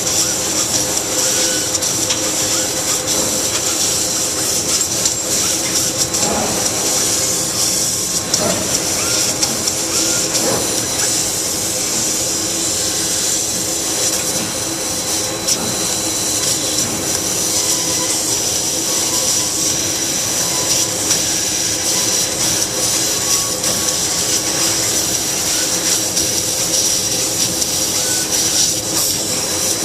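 LVD laser cutting machine running: a steady hiss over a constant machine hum.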